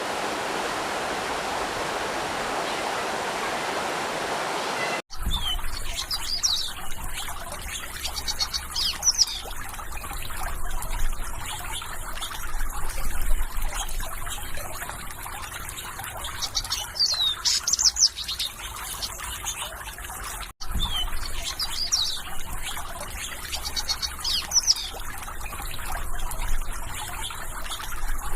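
Steady rushing water for about the first five seconds, then a sudden cut to a trickling stream with small birds chirping in short, high, quick phrases. The stream-and-birds passage cuts and restarts once, about twenty seconds in.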